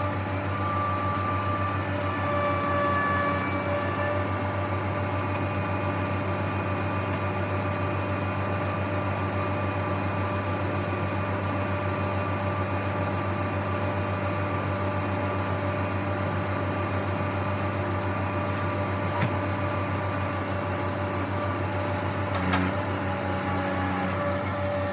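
Diesel engine of a farm vehicle running steadily, a constant low drone with a whine over it, and a couple of brief clicks in the second half.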